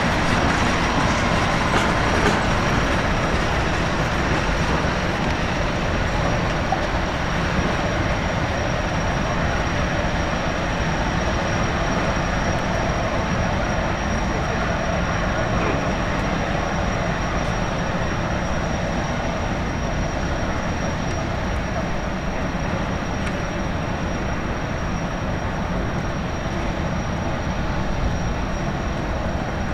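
High-speed jetfoil's gas turbines and water jets running: a loud, steady rush with a thin, steady high whine over it.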